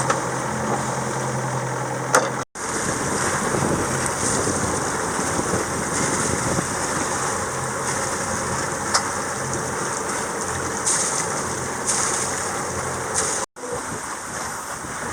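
A sailboat's engine runs with a steady low drone. About two and a half seconds in, the sound cuts to a steady rush of water and wind noise, with the engine hum only faintly underneath.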